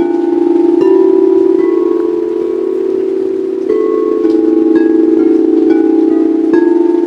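Singing bowls struck one after another, about one strike a second, each ringing on in a long sustained tone so that the tones overlap into a shifting chord.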